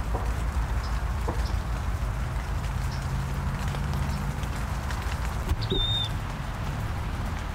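Light rain pattering steadily, with a low steady rumble underneath and a few faint ticks. About five and a half seconds in, one short, high, level chirp.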